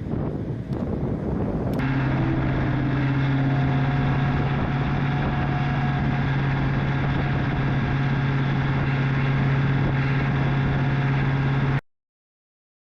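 An engine running at a steady speed with a strong, even low hum, after about two seconds of rougher, unpitched noise. The sound cuts off abruptly near the end.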